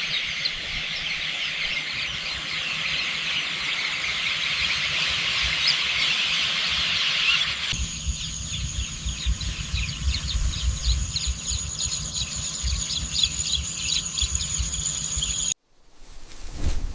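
A dense chorus of many small birds chirping. About eight seconds in it changes to sparser chirps over a steady high-pitched whine, and it cuts off abruptly near the end.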